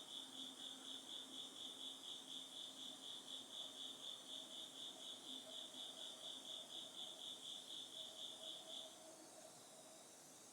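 An autumn insect chirping in a fast, even pulse, about four or five chirps a second, faint; it stops about nine seconds in.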